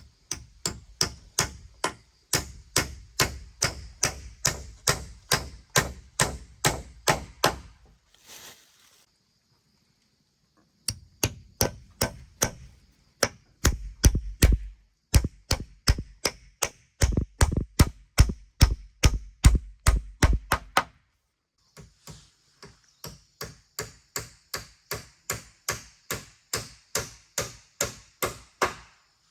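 A hand tool striking in fast, even blows, about two to three a second, in three long runs with short pauses between them, like chopping or hammering.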